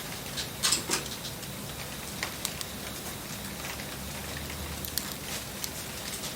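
Steady rain hiss with scattered sharp crackles and pops from a wood campfire, a few of them bunched together about a second in.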